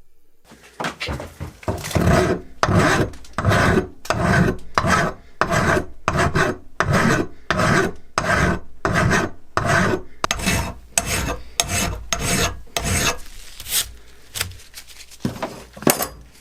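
Hand filing in steady back-and-forth strokes, about two a second, thinning to a few scattered strokes near the end.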